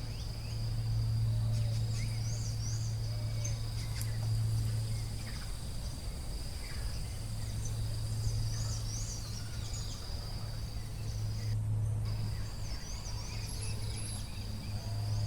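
Forest ambience: a steady high-pitched insect drone with short bird chirps above it, over a loud low steady hum.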